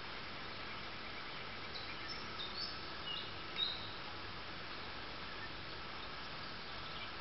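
A few short, high bird chirps between about two and four seconds in, the loudest near the middle, over a steady outdoor hiss with a faint insect-like hum.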